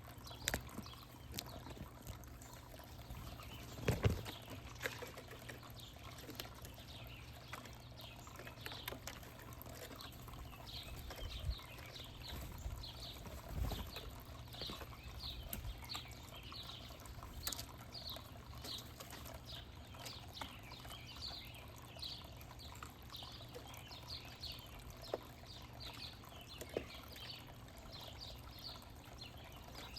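Small birds chirping over and over in short high notes, with a few soft knocks, the loudest about four seconds in.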